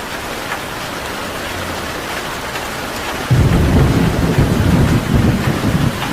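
Steady rain falling, with thunder breaking in suddenly a little past halfway and rumbling on, louder than the rain.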